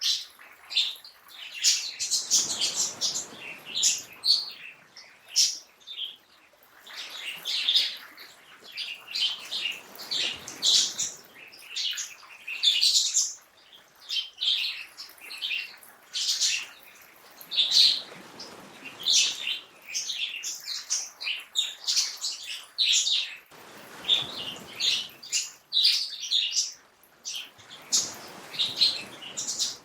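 Many songbirds chirping and calling, a dense stream of short, high notes. Under them a soft rushing noise swells and fades every few seconds.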